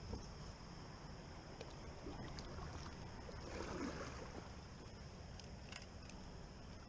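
Faint water sounds around a kayak moving on a river, swelling briefly a little over halfway, with a steady high-pitched insect drone underneath.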